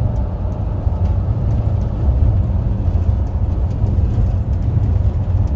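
A van being driven: a steady, loud low rumble of engine and road noise.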